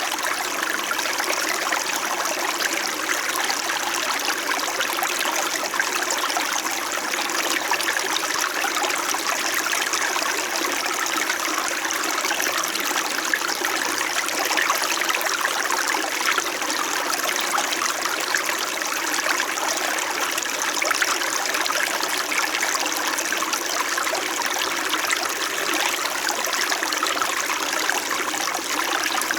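A small mountain stream flowing steadily, its water gently rippling and trickling over rocks.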